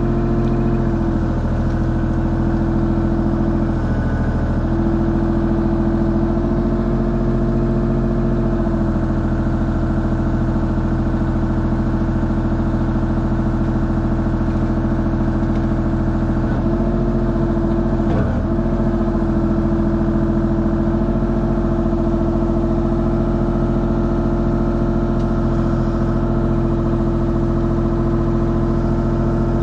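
Mini excavator's diesel engine running steadily while digging, its note sagging briefly a few times. There is one sharp knock about 18 seconds in.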